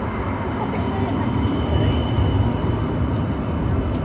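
Tram running on street track: a steady low rumble, with a faint high whine from about a second and a half in to about two and a half seconds.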